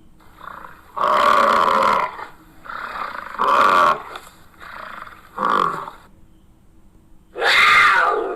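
Big cat roaring, a series of roars with short gaps between them; the loudest come about a second in and near the end.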